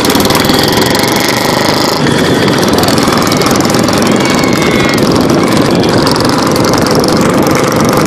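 Motorcycle engine running steadily at speed close to the microphone, a rapid, even rattle of firing pulses.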